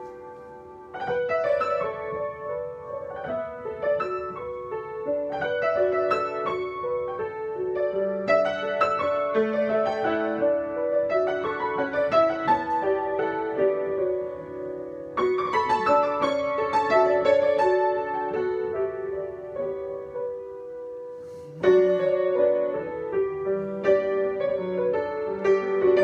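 Piano played in a solo improvisation: flowing phrases of notes and chords. The playing thins out briefly, then comes back with a loud chord about three-quarters of the way through.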